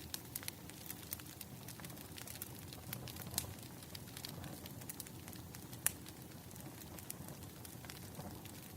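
Wood fire crackling: scattered sharp pops and snaps over a low, steady hiss, with two louder pops, about three and a half and six seconds in.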